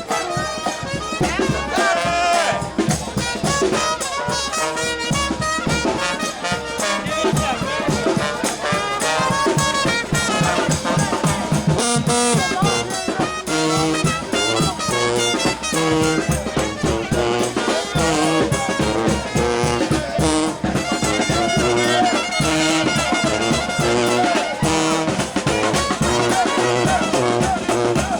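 New Orleans brass band playing a second-line tune: horns over a stepping bass line and a steady drum beat.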